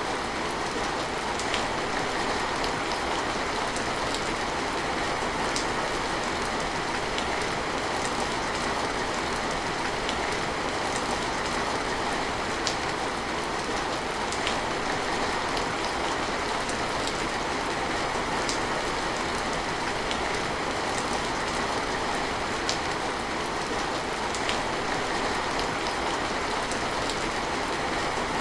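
Steady rain falling, an even hiss, with scattered sharp drips every second or two.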